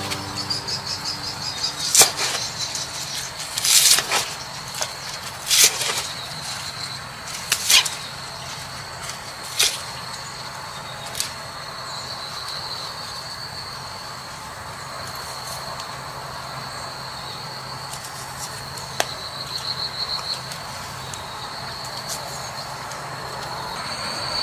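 Insects, likely crickets, trilling steadily at a high pitch. Sharp knocks or clicks come every couple of seconds through the first ten seconds or so, and a faint low hum runs underneath.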